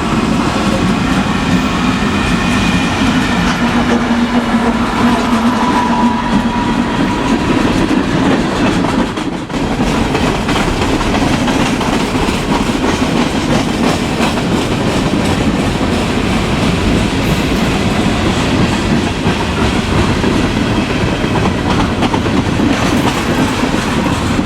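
A train rolling past close by: a steady rumble and clatter of wheels on the rails. A low hum sits under it in the first several seconds, and the sound briefly dips about nine seconds in.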